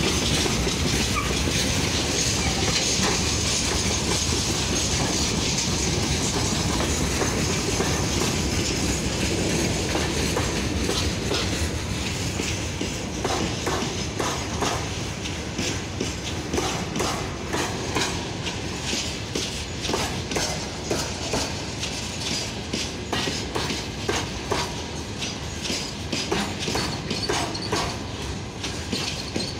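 Freight train wagons rolling past on the rails, a continuous rumble of wheels and car bodies. From about halfway through, the clickety-clack of wheels over rail joints comes through as a regular rhythm of sharp knocks.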